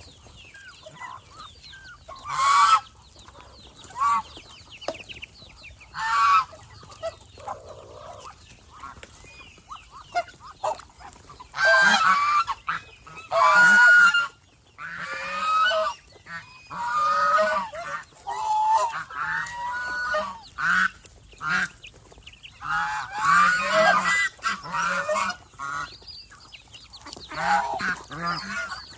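Domestic geese honking: loud, harsh calls repeated in irregular bouts, coming thickest in the middle of the stretch.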